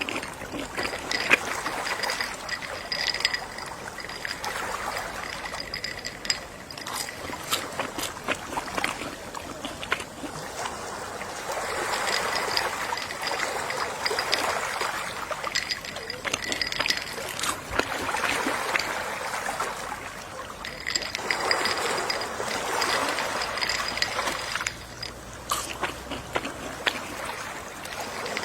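Gentle sea waves washing onto a shore, each wash swelling and fading over a few seconds, with a fine crackle throughout.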